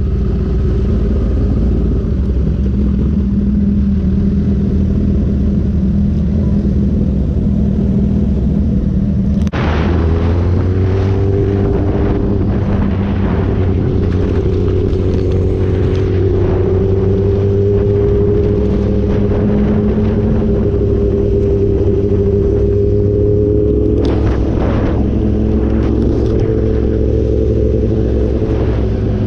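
Sport motorcycle engine running steadily under way. About nine and a half seconds in there is a brief break, after which the engine note climbs gently and then holds.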